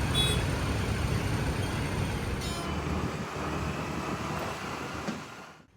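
Steady road traffic noise, a low rumble of passing vehicles, with two brief high tones near the start and about two and a half seconds in. It fades out near the end.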